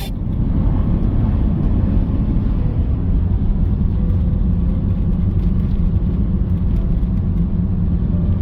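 Steady rumble of a car driving along the road, mostly deep road and engine noise, starting abruptly and holding even.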